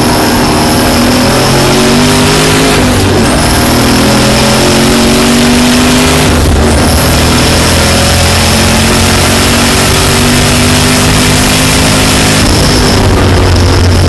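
Ford Mustang's engine at full throttle, heard from inside the cabin, revving up through the gears. The engine note climbs, drops at an upshift about 3 seconds in and again at about 6.5 seconds, then climbs on in the next gear.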